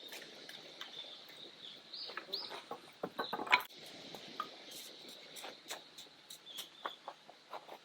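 Camp gear being handled and packed while striking camp: rustling, light knocks and clicks, with one louder clatter about halfway through. A couple of short bird chirps sound around two seconds in.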